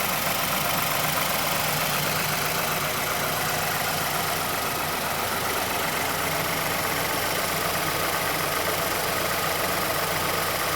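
Mazdaspeed6's 2.3-litre turbocharged direct-injection four-cylinder engine idling steadily with a fast, repeated clicking from the engine bay. This is the ticking and rattling that Mazda's Special Service Program 87 covers, caused by a worn VVT actuator or a stretched timing chain.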